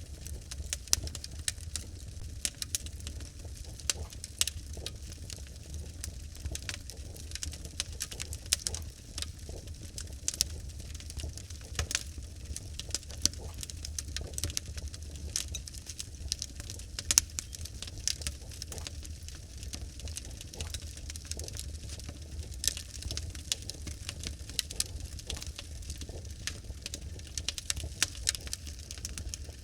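Wood fire of burning logs crackling: irregular sharp snaps and pops at an uneven rate over a steady low rumble of the flames.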